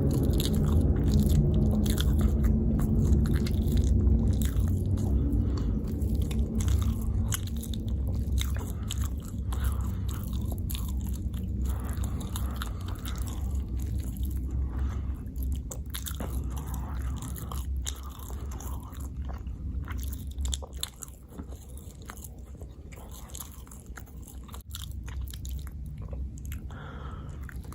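Close-miked chewing and biting of food, with many short, sharp mouth clicks, over a steady low hum that weakens about three-quarters of the way through.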